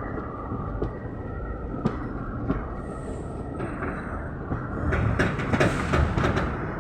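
A train running on the rails: a steady low rumble with scattered clicks from the wheels, busier and louder from about five seconds in.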